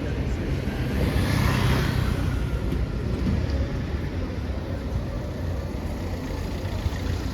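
Street traffic: vehicle engines running with a steady low hum, and a car passing close by about a second in.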